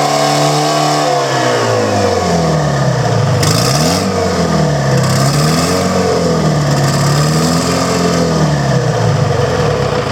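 Detroit Diesel 4-53 two-stroke four-cylinder diesel engine running at high speed, then dropping off and revving up and down several times, about every two seconds. A brief hiss sounds about a third of the way through.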